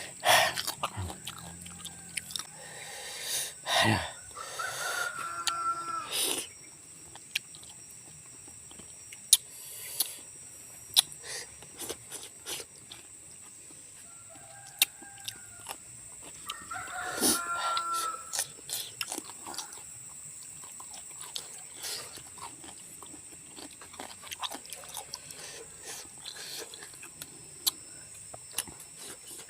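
Crunchy chewing and mouth clicks of someone eating raw fruit (cucumber, papaya, rose apple) with sambal. Twice, a few seconds in and again about halfway through, an animal calls in the background.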